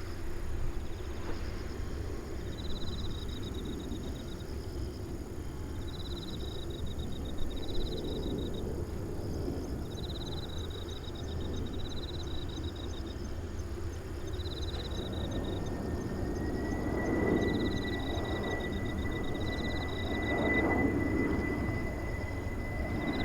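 A distant jet airliner approaching: a low rumble that grows toward the end, with a steady high engine whine that comes in about two-thirds of the way through. Insects trill in short pulsing bursts about every two seconds.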